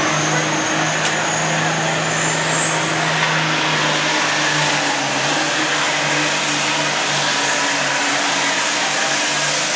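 Altered farmstock pulling tractor's engine running hard at full power under load, pulling the sled down the track. A high whine climbs in pitch about three seconds in.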